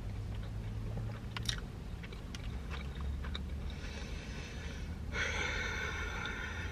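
Close-up chewing of a mouthful of burger with onion rings, with small crunches in the first couple of seconds. A steady high whine of unknown source comes in about four seconds in and grows louder a second later.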